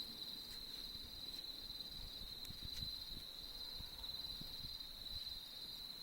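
A cricket trilling steadily at one high pitch, with a few faint pops from a crackling campfire.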